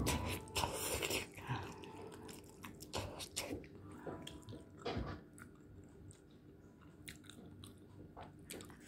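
Close-up mouth noises of someone eating spicy instant ramen noodles: chewing with wet clicks and smacks, busier in the first half and fainter near the end.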